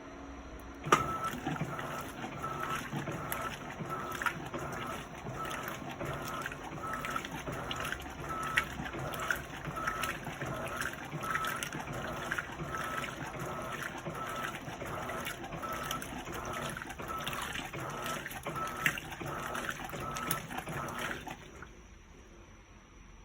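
Electrolux LPE16 washing machine agitating: the wash water swishes back and forth with a short motor tone at each stroke, about two strokes a second. It starts with a click about a second in and stops shortly before the end.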